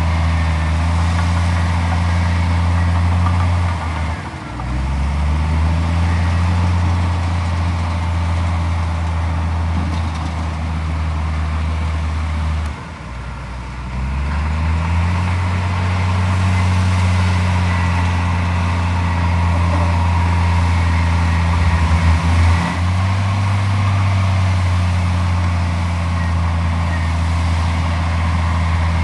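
Heavy diesel engine of earthmoving machinery running steadily. Its pitch drops and climbs back twice, about four seconds in and again around thirteen seconds, as the engine slows and picks up again.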